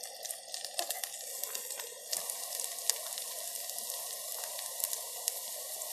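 Spiced potato pieces frying in hot oil in a camping cook pot: a steady sizzle with many small crackles, growing a little louder about two seconds in.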